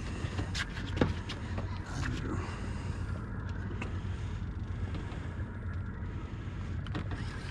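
Boat's outboard engine idling with a steady low hum, with a couple of sharp clicks about a second in and near the end.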